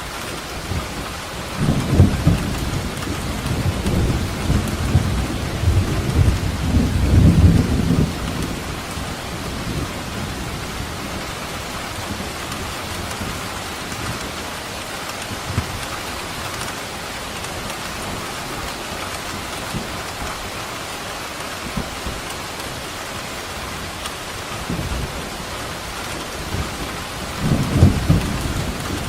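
Steady rain falling, with thunder rolling in low rumbles: a long peal in the first several seconds and another starting near the end.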